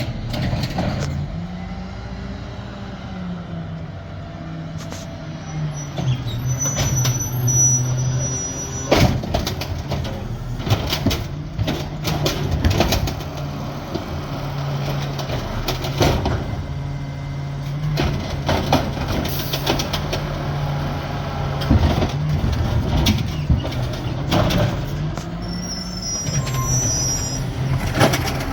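New Amrep garbage truck's natural-gas engine running, speeding up briefly about two seconds in and again near the end, with repeated sharp knocks and bangs of metal and plastic as the truck works through a collection.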